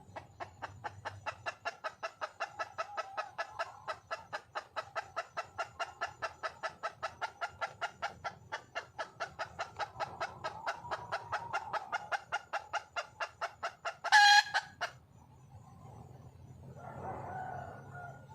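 Junglefowl hen clucking in a fast, even series of about five clucks a second, then one short, much louder call about fourteen seconds in, followed by softer clucking. This is the call a hen uses to draw a male.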